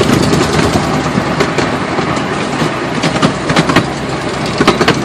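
Small park ride train running, a steady engine and running noise with many short clicks and rattles through it.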